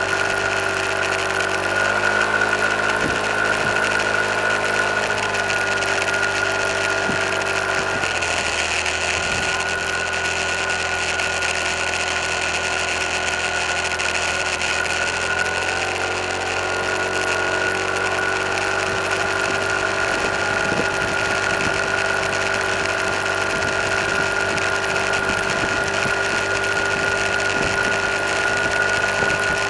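Car engine running while driving, heard from inside the cabin as a steady drone whose pitch shifts about two seconds in and again about eight seconds in, as the engine speed changes.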